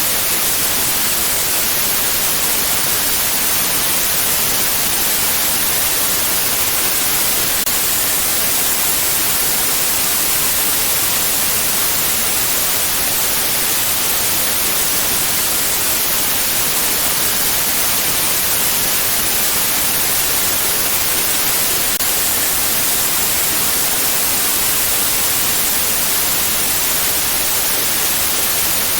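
Steady synthetic white noise: an even, unbroken hiss, brightest in the treble, with no change in level.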